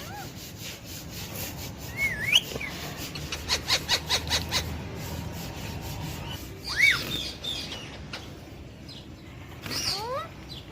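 Pet parrot giving a few short whistled calls that swoop up and down in pitch, with a quick run of clicks about four seconds in.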